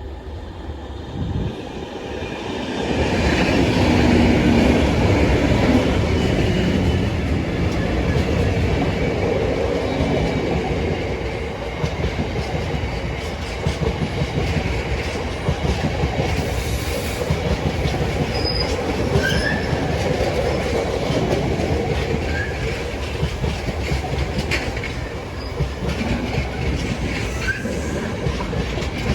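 A train passing close by: it builds up over the first few seconds to its loudest, then a long steady run of wheels clicking over the rail joints, with a few brief wheel squeals in the second half.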